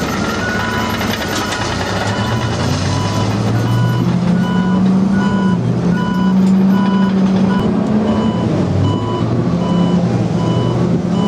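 A heavy vehicle's reversing alarm beeps steadily, a short beep about every three-quarters of a second, over its engine running with a low, steady hum that rises slightly in pitch a few seconds in.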